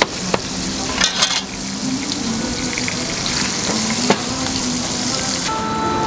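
Hotteok frying in margarine on a hot griddle: a steady sizzle, with a few sharp clicks and taps. A faint steady tone comes in near the end.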